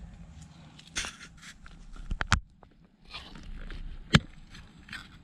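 Handling noises of tools and parts on a workbench: scraping and rustling with a few sharp knocks, the sharpest just past four seconds in.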